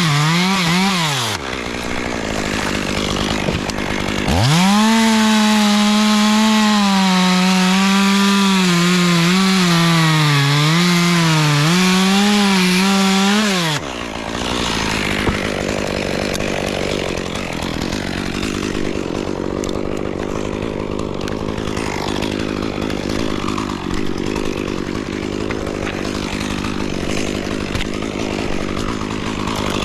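Chainsaw revving at full throttle and cutting, its pitch dipping and recovering as the chain bites into wood, then dropping back to idle about 14 seconds in. Before the cut the saw comes off the throttle and idles briefly; after it, it idles on under a rough rustling, scraping noise.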